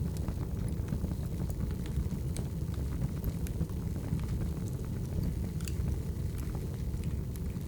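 Wood fire crackling: scattered sharp pops and snaps of burning logs over a steady low rumble.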